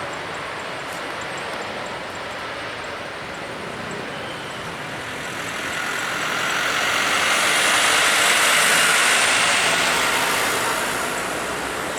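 Jet airliner passing: a steady engine rush over background noise swells to a peak about eight or nine seconds in, then fades.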